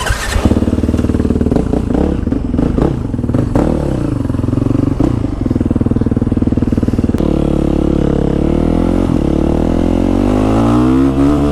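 Motorcycle engine running under way, the revs rising and falling unevenly at first, then holding steady before climbing in pitch near the end as the bike accelerates.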